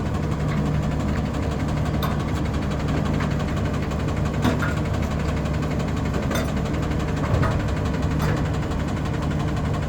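Garbage truck engine idling steadily, with several short, sharp clanks over it.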